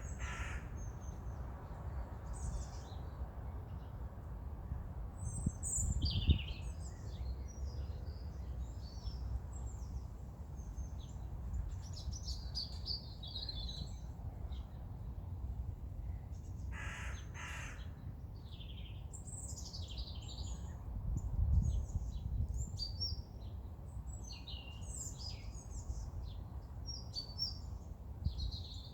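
Small songbirds chirping and singing in short high phrases throughout, with harsh cawing calls from a crow-type bird at the very start and twice more about halfway through. A steady low rumble lies underneath.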